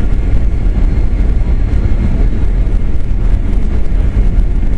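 Steady, loud low rumble of an airliner heard from inside the cabin: engine and airflow noise during the landing.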